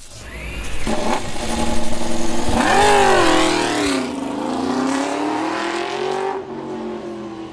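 MotoGP racing motorcycle engine revving, its pitch swinging up and down, with a quick rev up and drop about three seconds in, then a slower climb that cuts off near the end.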